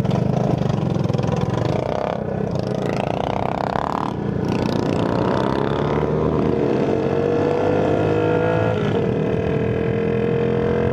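Small 50cc motorcycle engine, a tuned Shineray Phoenix, running under way. Its pitch climbs steadily for several seconds as it speeds up, dips briefly near the end, then holds steady.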